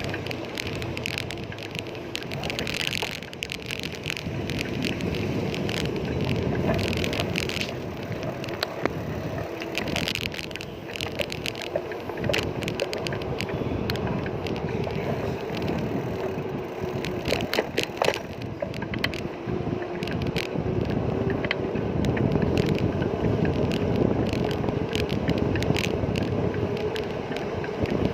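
Bicycle riding noise: a steady rumble of tyres on the road with frequent small clicks and rattles from the bike, and some wind on the microphone.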